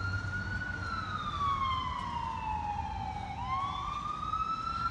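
Emergency vehicle siren in a slow wail: its pitch falls starting about a second in, then rises again for the last couple of seconds.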